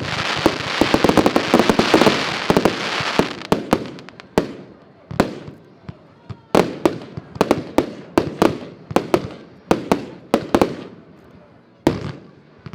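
Pryme Ultymum 139-shot compound fireworks battery firing. It opens with a dense wash of crackling for about three seconds, then gives single sharp bangs, two or three a second, that thin out near the end.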